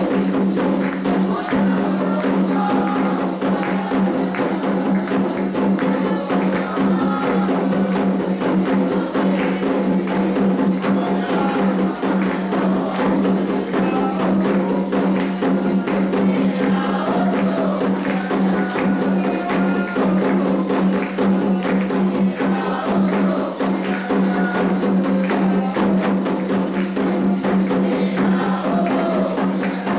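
Candomblé ritual music for Iansã: atabaque hand drums playing a steady, fast rhythm with other hand percussion, and voices singing over it.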